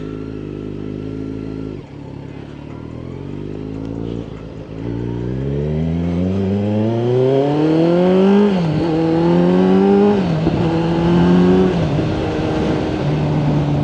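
A 2018 Kawasaki Z900's inline-four engine through a Yoshimura exhaust. It holds a steady pitch, drops off the throttle about two seconds in, then revs up in a long rising pull under acceleration from about five seconds. The pitch drops suddenly at each upshift, about eight and a half, ten and twelve seconds in.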